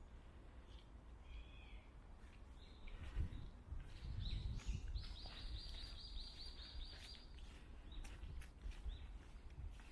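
Wild birds calling in a forest, with a long, rapid trill in the middle and shorter chirps around it. Soft low thuds of footsteps on the path come a few seconds in.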